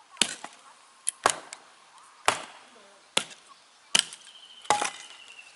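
Firewood being chopped or split, with about seven sharp wooden strikes roughly one a second.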